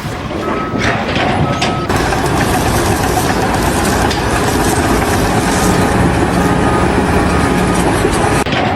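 A heavy truck or construction machine running loudly, with a reversing alarm beeping about once a second for the first two seconds; after that a steady, dense machine noise fills the rest.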